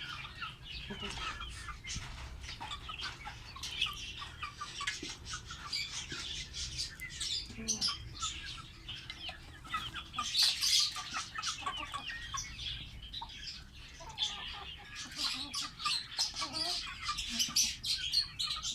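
Pet lovebirds chirping and chattering continuously in many quick, high calls, getting busier and louder about ten seconds in and again near the end.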